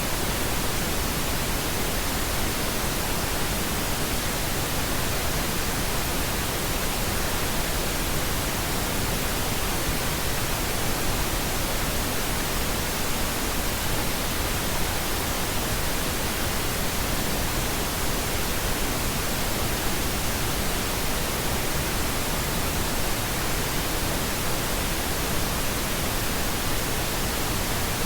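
Continuous synthetic pink noise: a steady, even hiss spread across all frequencies, unchanging throughout.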